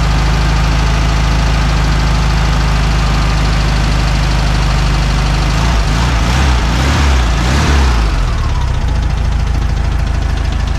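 Air-cooled flat-four engine of a vintage VW Beetle idling steadily, revved up once about six seconds in and let fall back to idle about two seconds later. It is running evenly now that its mixed-up spark plug wires have been put back in firing order.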